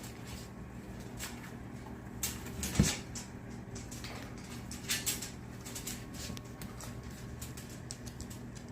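Scattered taps, scratches and clicks of a blue-and-gold macaw climbing on and working at a cardboard box, with one louder thump about three seconds in.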